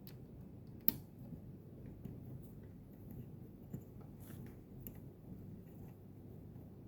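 Scattered small clicks and taps from handling a pump display's plastic parts during a battery replacement, with one sharper click about a second in, over a low steady hum.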